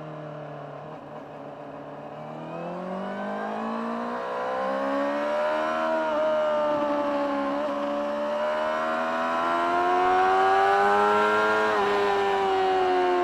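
Honda CBR600RR inline-four engine through its stock exhaust, heard on board: pulling from low revs about two seconds in and accelerating, the engine note rising with a few short dips along the way, then easing down slightly near the end.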